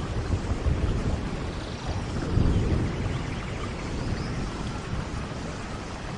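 Steady tropical rain with the low rumble of distant thunder, swelling about two seconds in, and a few faint bird chirps above it.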